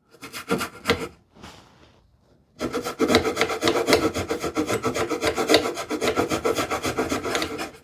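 Hand saw cutting into wood with quick, short strokes, starting about two and a half seconds in after a few brief handling noises.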